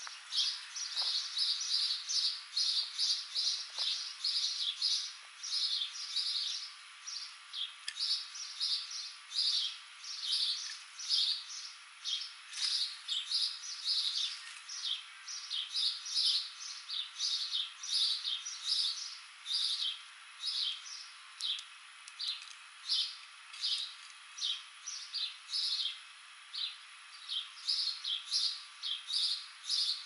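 A small songbird chirping over and over, short high chirps about two a second with brief gaps now and then.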